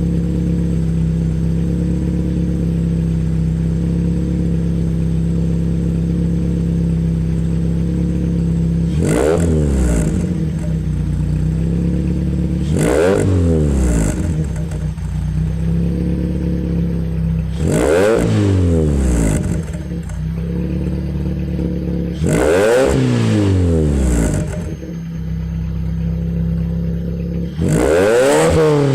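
Proton Exora's 1.6-litre CamPro CPS four-cylinder engine, breathing through an aftermarket Jasma twin-tip exhaust, idling steadily and then revved about five times, each rev climbing and falling back to idle.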